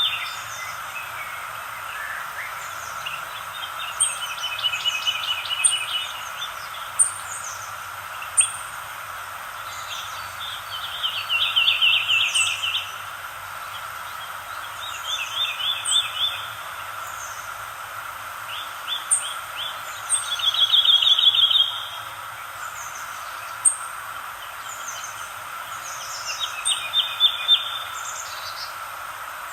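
Songbirds singing: trilled phrases of a second or two recur every few seconds, with short sharp high chirps between them, over a steady background hiss.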